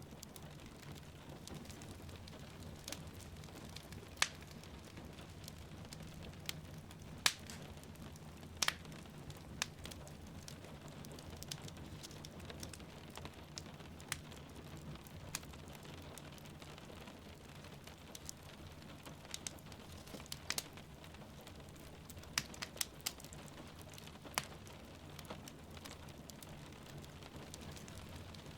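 Wood fire crackling, with irregular sharp pops a few seconds apart, over a steady hiss of rain.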